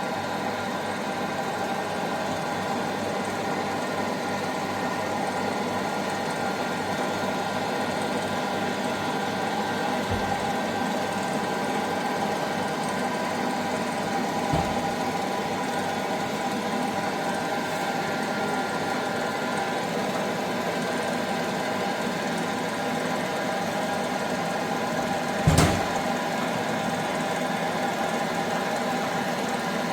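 Daito ST4070G double-column bandsaw running: a steady machine hum from its drive, with a few short knocks, the loudest about 25 seconds in.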